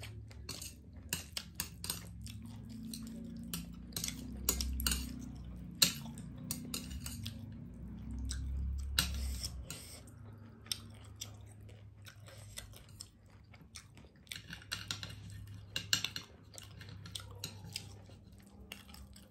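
Chewing of spicy ramen noodles, with many short clicks of metal chopsticks against the plate.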